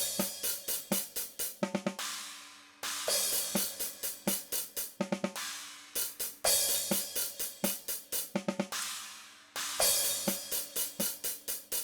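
DrumGizmo virtual drum kit playing back a groove of kick, snare and hi-hat hits, with a cymbal ringing out at the end of each phrase of about three and a half seconds. The snare's close-mic fader is being pulled down to silence, so the snare is left sounding only through bleed in the overhead mics.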